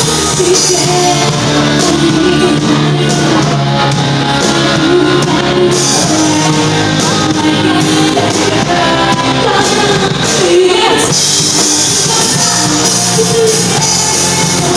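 Live rock band playing loudly in a large hall, with a singer's voice over the band and a boomy, echoing sound.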